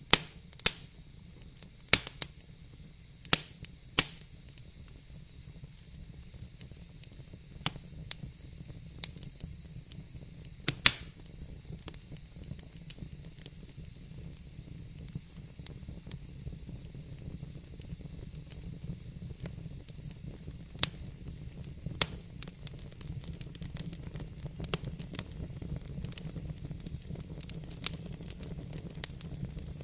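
Wood fire crackling, with sharp pops at irregular intervals over a steady low rumble and faint hiss; the pops come thickest in the first few seconds.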